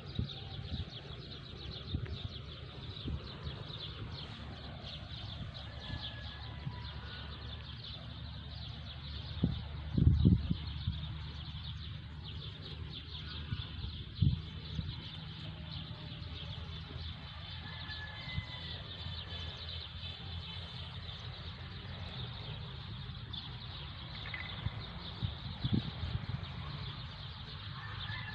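Birds chirping in short, scattered calls over a steady high-pitched chorus and a low rumble. A few dull bumps come through, the loudest about ten seconds in.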